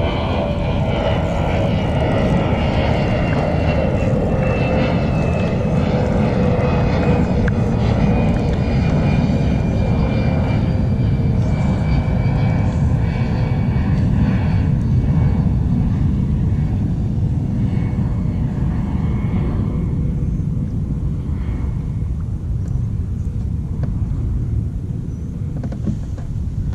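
A distant engine drones as it passes, its pitch slowly dropping over the first half and fading out about three-quarters of the way through, over a steady low rush of wind and water on the kayak.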